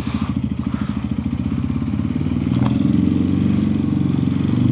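Crossfire motorcycle engine running as the bike is ridden, a steady, even run of exhaust pulses. A little over halfway through the pulses speed up and get louder as the rider opens the throttle.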